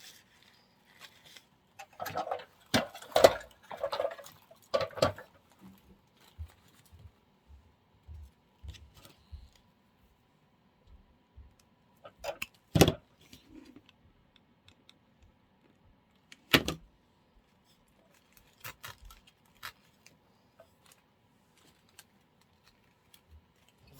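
Artificial flower stems being handled and pushed into a centerpiece arrangement. There is a rustling, clattering stretch about two to five seconds in, then scattered light taps and two sharp clicks later on.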